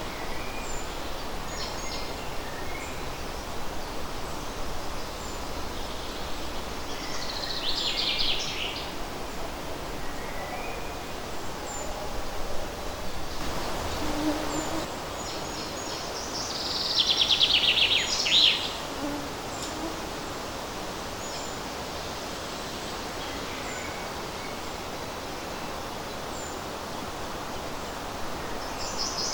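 Songbird singing a short, fast, trilling phrase about every nine seconds, over a steady hiss of light wind in the leaves. A faint low hooting call comes in twice, around the middle.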